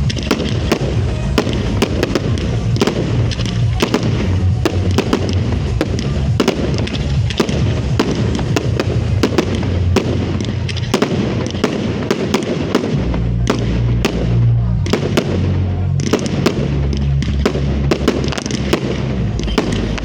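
Fireworks display: a dense run of bangs and crackles, many a second, with music's bass playing underneath.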